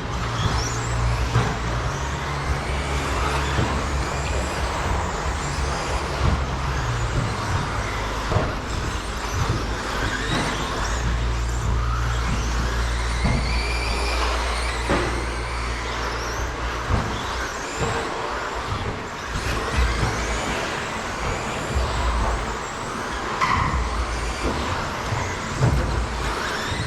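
Several 13.5-turn brushless-motor electric RC stadium trucks racing, their motor whines rising and falling as the drivers work the throttle, with occasional sharp knocks over a steady low rumble.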